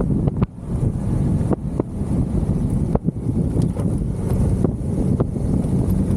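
Motorcycle engine running steadily while riding, with wind buffeting the microphone and occasional short sharp pops.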